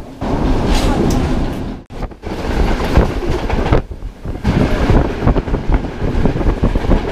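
Passenger train running on the rails: wheels clattering over the track, a steady rumble with many short knocks. The sound drops out sharply for a moment about two seconds in.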